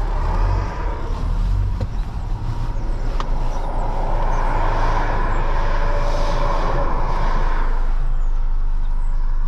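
Semi truck's diesel engine running with a steady low rumble. A loud rushing hiss swells up about four seconds in and fades away about four seconds later.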